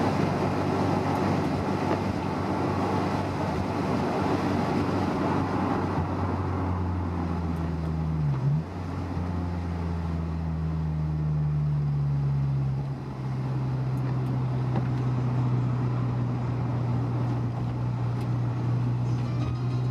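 Car engine drone with tyre and road hiss, heard from inside a Honda S2000's cabin while driving. About eight seconds in, the engine note dips sharply and comes back up. Near thirteen seconds it settles to a steadier, single hum, and the hiss thins out partway through.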